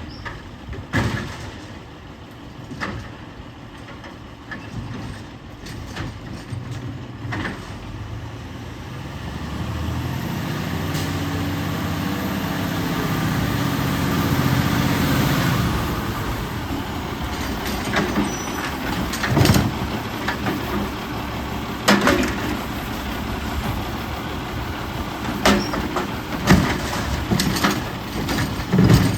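Autocar WX64 garbage truck's engine running, revving up and holding higher for several seconds in the middle before dropping back. Sharp metallic clanks and bangs come at intervals, several of them near the end.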